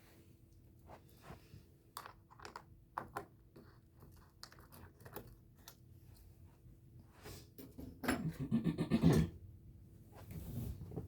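Scattered rustles and clicks of packaging being handled as chicken is unwrapped, with a louder stretch of rapid crinkling and tearing about eight seconds in.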